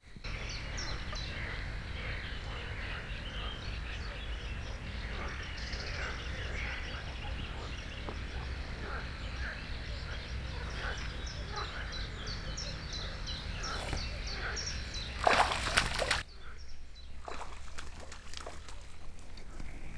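Dense outdoor chorus of many short chirping animal calls over a steady low rumble. A loud, brief burst of noise comes about fifteen seconds in, and the chorus then cuts off abruptly to quieter ambience with scattered clicks.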